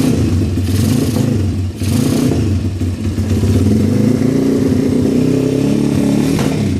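140cc pit bike's single-cylinder four-stroke engine being revved: a few quick throttle blips in the first two seconds, then held at higher revs that rise and fall, dropping back near the end.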